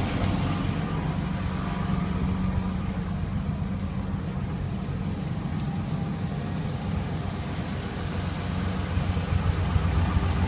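Chevy 4.3-litre V6 engine from a 1988 pickup running at a steady idle, getting louder near the end.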